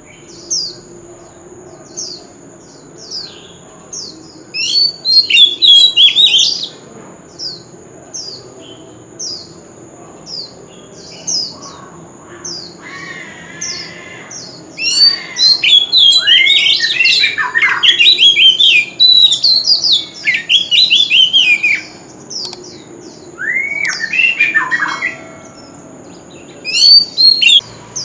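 Oriental magpie-robin singing: single short high notes that sweep downward, repeated about twice a second, broken by fast, loud runs of varied whistled phrases.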